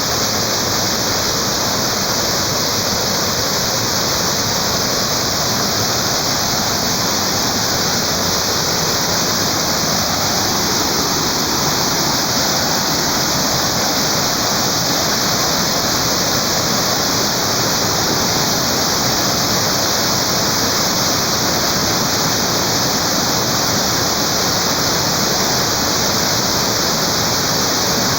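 Waterfall: water falling and pouring without a break, a loud, even rushing.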